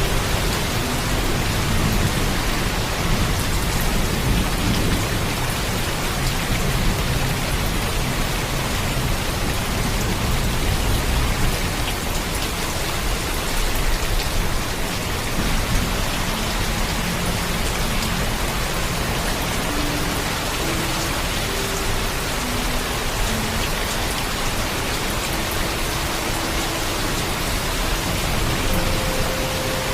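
Steady heavy rain with a low rumble of thunder underneath, the rumble strongest in about the first twelve seconds.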